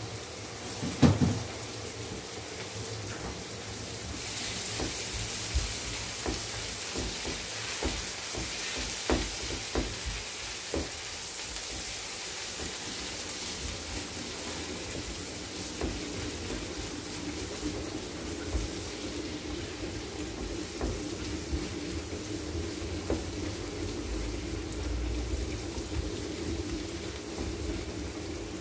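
Diced potatoes, carrots and onion sizzling in butter and oil in a frying pan, stirred with a silicone spatula that knocks and scrapes against the pan now and then. The sizzle grows brighter about four seconds in.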